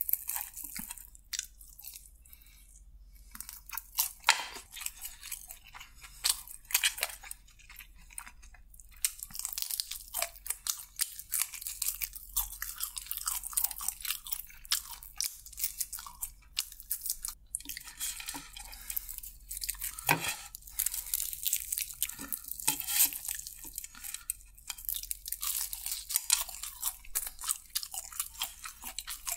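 A person chewing crispy fried chicken close to the microphone: dense, crisp crunches and chewing, with a couple of brief pauses.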